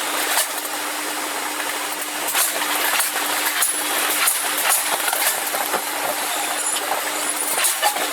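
Forge-shop machinery running with a steady hum and noise, broken by irregular sharp metal clanks.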